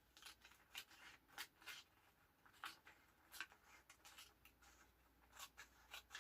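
Faint, sharp snips of scissors cutting washi tape on a paper journal page, repeated irregularly many times.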